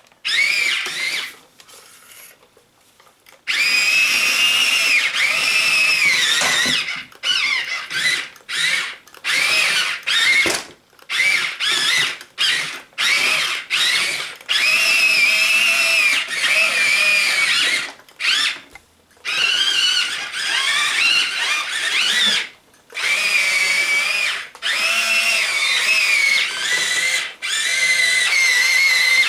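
Small electric gear motors of a 1:12 scale radio-controlled toy excavator whining in stop-start bursts as its functions are worked. The whine wavers up and down in pitch: one short burst at the start, a pause of about two seconds, then mostly continuous running broken by many brief stops.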